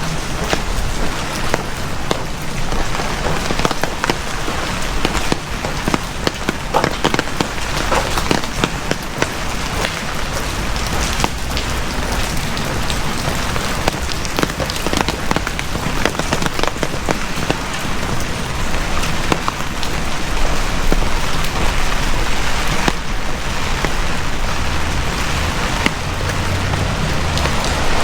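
Heavy rain falling steadily, with a dense patter of close individual drop hits over the hiss of the downpour.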